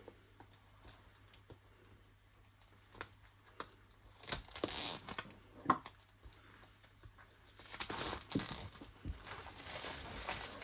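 Packaging on a boxed kit being torn open, with plastic crinkling. A few faint clicks come first, then bursts of tearing and crinkling about four seconds in and again from about eight seconds on.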